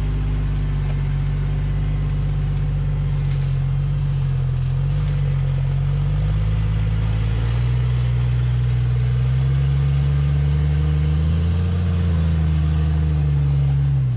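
Off-road vehicle engine running steadily at low revs, its pitch wavering slightly up and down, as a rock-crawling buggy inches slowly up a rock climb.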